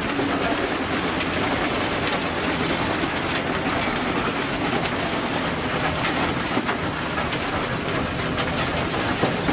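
Heavy machinery running steadily, with a dense rattle of clicks and knocks over its noise.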